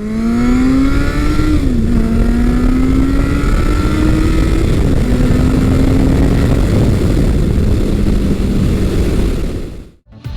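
Big-bore motorcycle engine accelerating hard, its note climbing and dropping at two upshifts, about two and five seconds in. After about seven seconds the engine note fades into a rough, steady rumble that cuts off just before the end.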